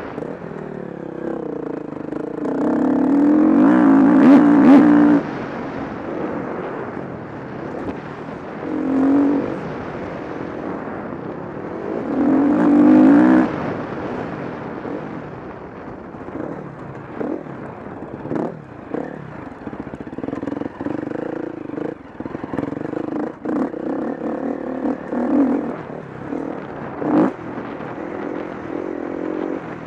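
KTM 350 SX-F motocross bike's single-cylinder four-stroke engine revving hard and backing off through the gears as it is ridden on a dirt track. The two loudest full-throttle pulls come about three and twelve seconds in, and sharp knocks break in along the way.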